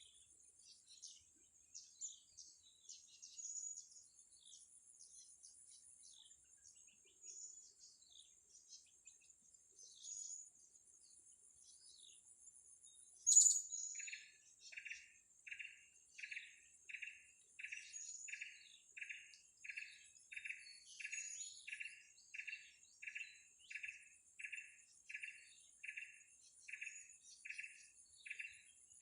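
Small birds calling over a steady high insect buzz. Scattered short, high chirps come first, then one loud sharp chirp about halfway. After that a bird repeats the same call at an even pace, about one and a half times a second.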